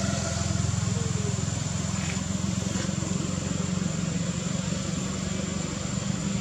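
An engine running steadily: a low, even rumble.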